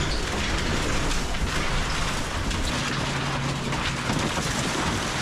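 Heavy excavator's diesel engine running under a loud, dense crackling noise, the sound of a house being torn down by the machine.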